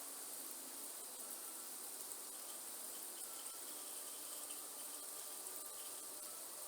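Steady rain falling in a rainforest, with a constant high-pitched insect drone over it and a few faint short tonal calls now and then.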